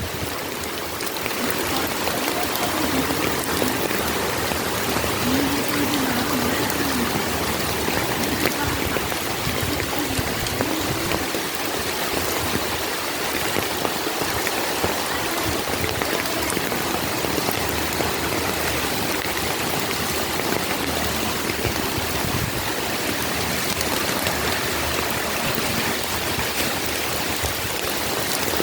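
Storm rain pouring down steadily: a continuous, even rush of falling and running water.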